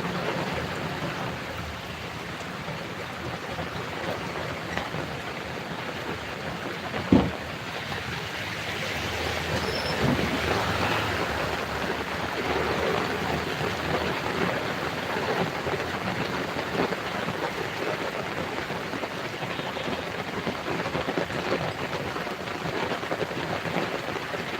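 Heavy rain falling in a steady, even hiss, with one sharp knock about seven seconds in.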